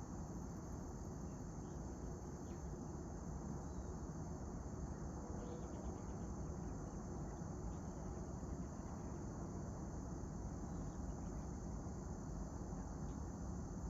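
Steady high-pitched chorus of crickets over a constant low rumble, with a few faint short chirps scattered through.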